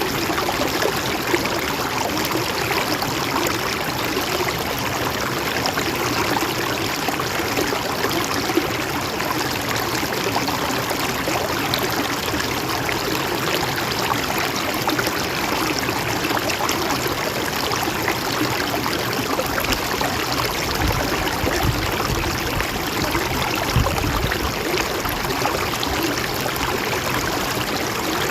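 Mountain stream running steadily, a continuous even rush of water. A low rumble rises under it for a few seconds about two-thirds of the way through.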